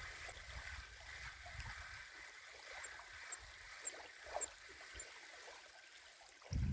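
Faint lapping and trickling water, with a few short light ticks and small splashes, and a low wind rumble on the microphone in the first couple of seconds.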